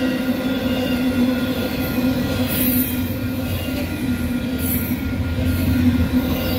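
Union Pacific train rolling past at close range: a steady rumble of wheels on rail with a thin, steady metallic squeal over it, and brief sharper hissing flares about every two seconds.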